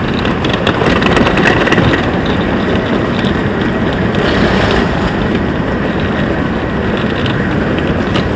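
Railway station platform noise beside a stationary train: a steady rumble with a few faint clicks.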